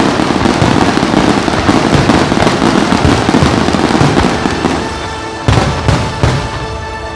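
Aerial fireworks bursting in a dense, continuous barrage. About five seconds in it thins to a few separate loud booms, with the show's music playing underneath.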